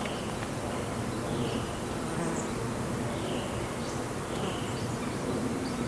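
Honeybees buzzing around an opened hive: a steady, dense hum.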